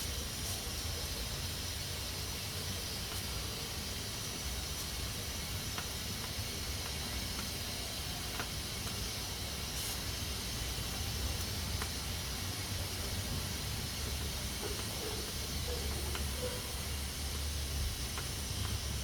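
Pressure cooker hissing steadily as steam escapes through its valve while it cooks under pressure, with a low rumble underneath and a few faint clicks.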